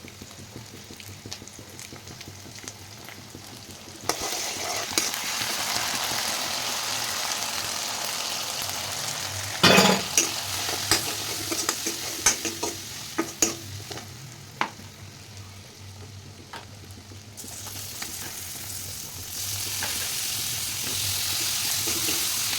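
Food sizzling in hot oil in a pan on the stove while a spoon stirs it, with scattered clicks of the spoon against the pan and one loud clatter about ten seconds in. The sizzle gets suddenly louder about four seconds in, fades in the middle, and grows loud again near the end.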